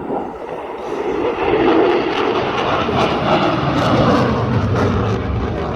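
Loud jet noise from the F-22 Raptor's twin F119 turbofan engines as the fighter flies its display. It swells over the first two seconds, then holds steady.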